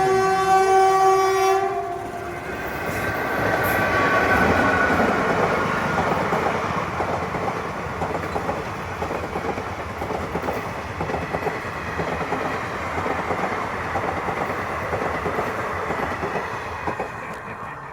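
Train horn blaring for about a second and a half, then the train passing with its wheels clattering rhythmically over the rail joints, easing off near the end.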